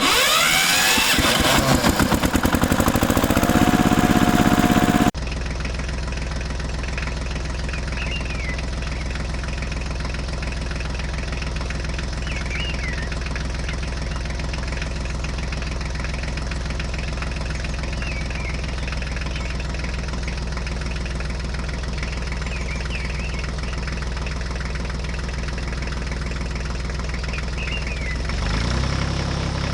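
Small engine running at a steady idle with an even low hum. The first five seconds are louder and rougher, with a rising whine that settles, and they cut off abruptly.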